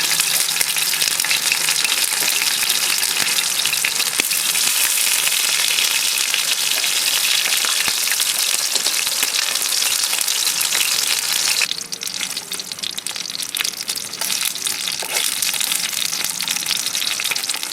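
Food sizzling in a hot frying pan: a loud, dense hiss full of small crackles. About twelve seconds in it drops abruptly to a softer sizzle.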